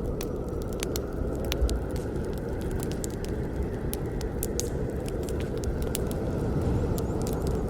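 Campfire burning with a steady low rush of flames and frequent irregular crackles and pops of burning wood.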